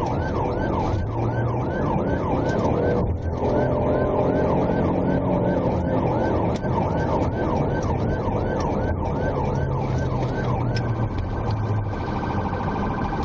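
Police car siren sounding in a fast yelp, rising and falling about three times a second, then switching to a steady held tone near the end, over the cruiser's engine and road noise during a high-speed pursuit.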